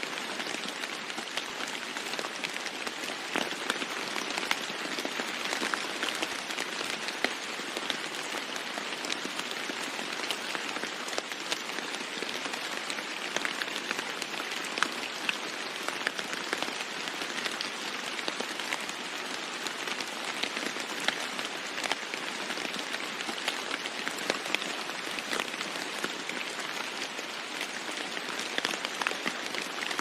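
Steady rain falling on a roof, with many individual drops ticking through the constant hiss.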